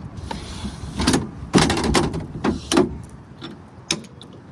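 Tailgate step of a Ford Super Duty pickup being pulled out and unfolded: a run of sharp clunks and clicks at irregular intervals, loudest in the middle.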